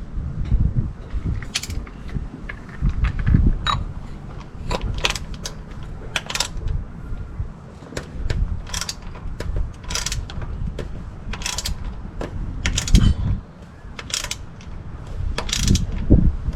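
A 3/8-inch ratchet on a cup-type oil filter wrench, clicking in short irregular strokes as it turns the oil filter off, over a low rumble of handling noise.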